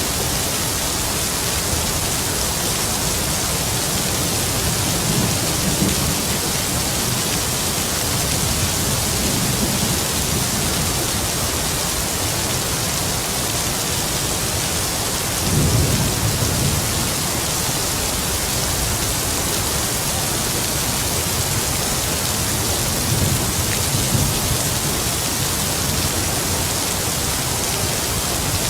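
Heavy rain falling steadily, with low rumbles of distant thunder swelling up several times, the strongest about halfway through.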